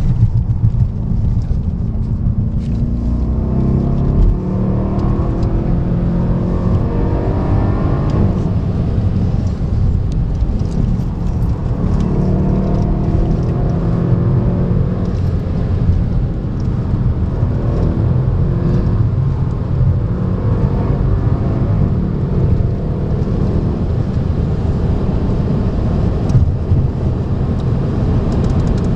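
Mercedes C63 engine heard from inside the cabin at racing speed, its pitch rising in several sweeps as it accelerates hard and pulls through the gears, over steady road and wind noise.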